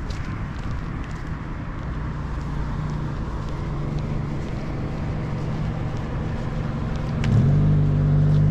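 Street traffic noise, with a motor vehicle's engine growing louder about seven seconds in as it comes close, running with a steady low hum.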